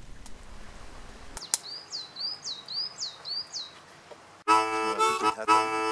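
A bird calling about six times in quick succession, each note a short curved chirp. About four and a half seconds in, music of held reedy chords starts.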